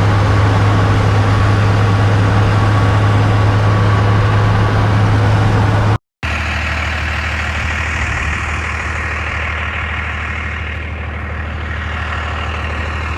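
Old truck driving, its engine and road noise making a steady low drone, with a brief break about six seconds in.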